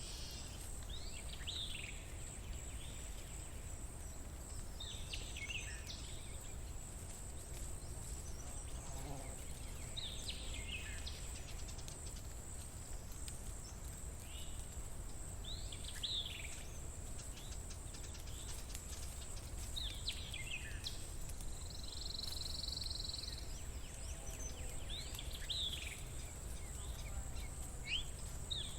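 A bird repeats the same short, sweeping call about every five seconds over an outdoor ambience. A steady high-pitched whine and a low background rumble run underneath it.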